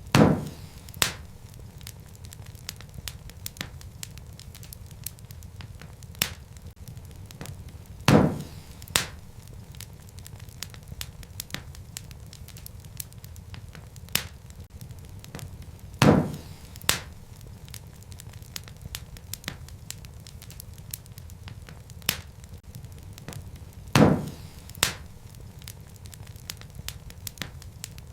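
Wood fire burning in a fireplace: a steady low rumble of flame with constant small crackles. A louder pair of sharp pops comes about every eight seconds, the second pop about a second after the first.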